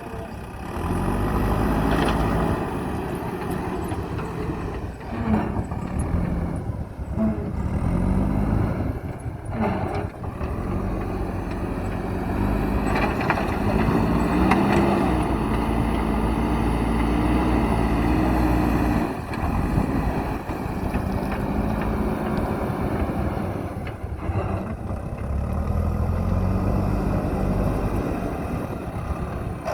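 Diesel engine of a JCB backhoe loader working, its revs rising and falling under hydraulic load while it loads gravel, with a few knocks along the way.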